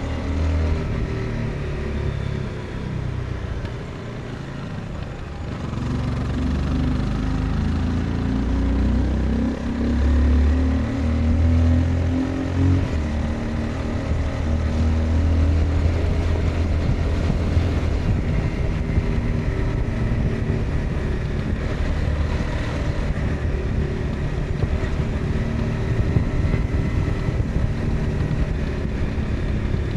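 Honda CBR 250R's single-cylinder engine and exhaust under way, the pitch falling off a few seconds in and then climbing as the throttle opens, before settling into steadier running with small changes in speed.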